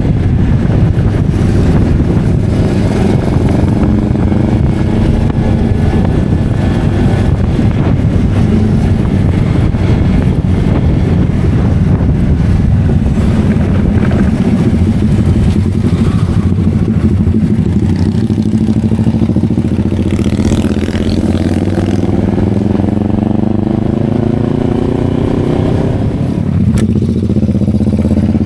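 Motorcycle engine running while riding, its pitch rising and falling with the throttle and climbing near the end as it speeds up.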